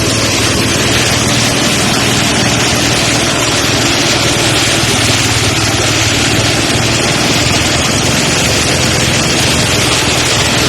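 Engine-powered rice thresher running steadily: a constant engine hum under an even rushing noise of the threshing drum working through the rice.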